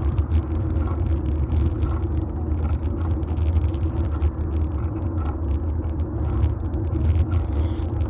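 Ride noise from a fixed-gear bike picked up by a phone in a metal handlebar mount: a steady low rumble of the tyres rolling over the road, with a faint tick about once a second.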